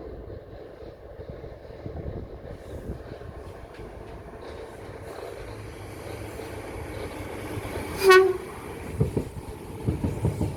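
Electric passenger train approaching with a rumble that grows louder, giving one short single-tone horn blast about eight seconds in, then wheel noise as it runs through the crossing.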